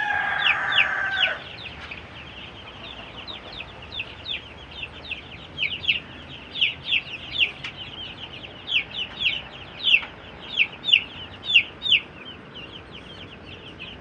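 Young chicks peeping: many short, high, falling peeps, two or three a second, louder and busier in the second half. A louder drawn-out call from a grown fowl sounds over them in the first second and a half.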